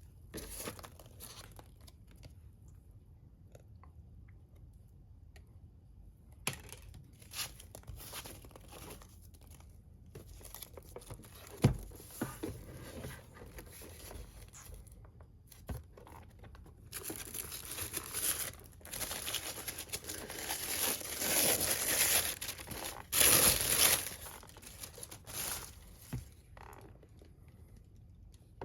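Figure packaging being handled and torn open: scattered clicks and crinkles, a sharp knock about twelve seconds in, then a louder stretch of tearing and crinkling in the second half.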